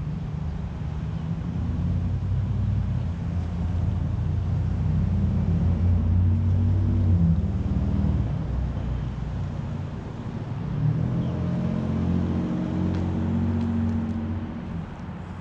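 Motor vehicle engines running with a low hum that swells and fades twice, loudest about halfway through, with a second rise near the end.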